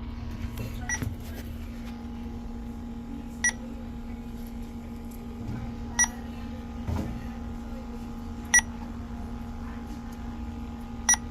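Electronic refrigerant leak detector giving short, high single beeps, evenly spaced about every two and a half seconds, while it sniffs for trace gas. A steady low hum runs underneath.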